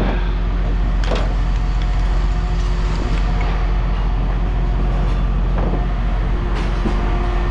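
Steady low rumble of running machinery with a constant hum, and a few light knocks about a second in and again near the end.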